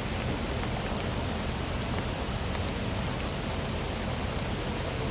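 Steady rain during a thunderstorm, an even hiss with a deep low rumble underneath and no thunderclap.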